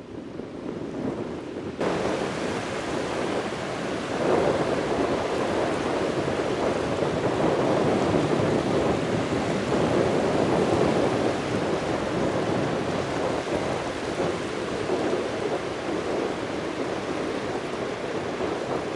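Steady rushing noise of strong wind, with no pitch or rhythm, starting abruptly about two seconds in.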